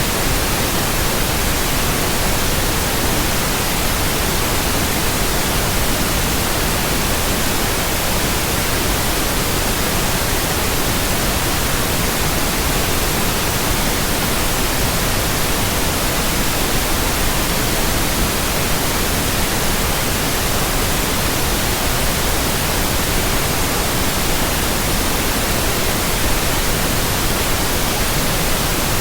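Steady white noise: an even, unbroken hiss spread evenly across all pitches, with no change in level.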